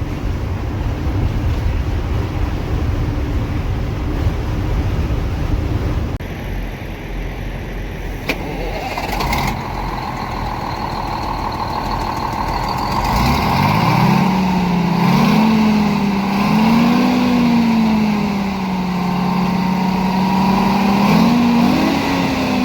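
A bus with a freshly rebuilt engine on the road: a steady low rumble with road noise. About halfway through the sound changes, and a pitched whine sets in that climbs, then wavers up and down in pitch.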